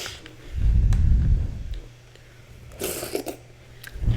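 Close-miked eating sounds: chewing and slurping a juicy spoonful of Nature's cereal, with low thumps from the mouth close to the microphone and a short wet slurp about three seconds in.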